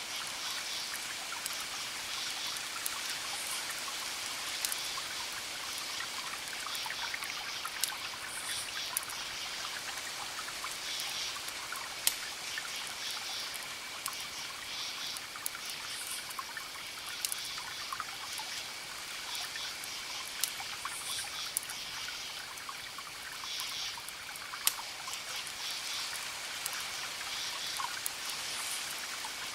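Wood fire crackling: a steady hiss full of small crackles, with a handful of sharper pops scattered through. Behind it runs a thin steady high tone and high chirps that come back every second or so.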